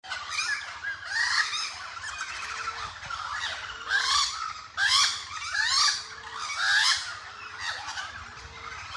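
Several crows cawing, harsh calls repeating and overlapping, the loudest caws coming about four to seven seconds in.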